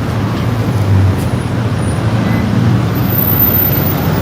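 Car and traffic noise: a steady low engine and road rumble.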